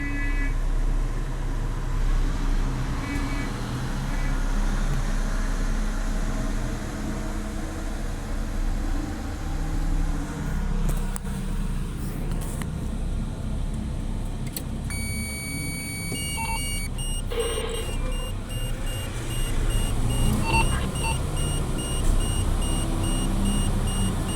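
Heavy mining dump truck's diesel engine running steadily with a low rumble. About fifteen seconds in, a high electronic tone sounds, and then a repeating electronic beep alarm goes on over the engine.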